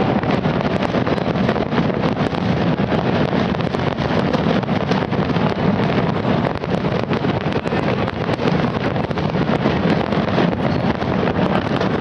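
Dense fireworks barrage: many overlapping bangs and crackles merging into a steady rumble, with sharp cracks all through.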